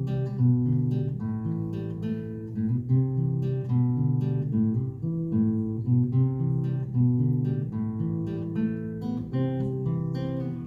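Acoustic guitar music: a steady flow of plucked notes with occasional strums.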